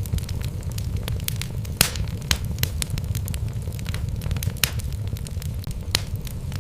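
Wood fire burning in a fireplace: a steady low rumble of flames with irregular sharp crackles and pops of burning logs, a few of them louder, about two seconds, four and a half seconds and six seconds in.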